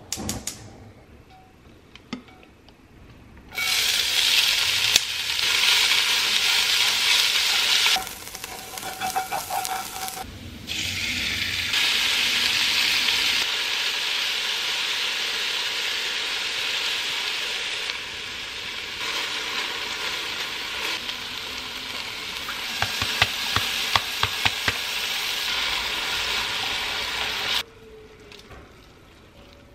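Diced chicken and onion sizzling in a hot enamelled cast-iron Dutch oven, with tongs clicking and scraping against the pot, heard over several edited cuts. The sizzle stops suddenly near the end.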